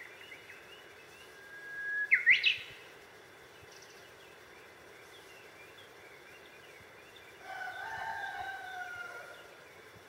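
Wild birds calling. The loudest is a song phrase: a held whistle that breaks into a few quick, sharply rising notes. Near the end comes a longer, lower call of about two seconds that falls slightly, and faint chirping runs underneath.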